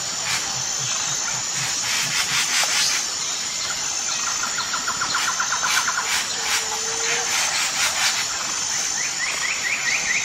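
Outdoor nature ambience: a steady high insect buzz under birds calling in rapid chirping trills, one in the middle and another starting near the end, with a few bursts of rustling.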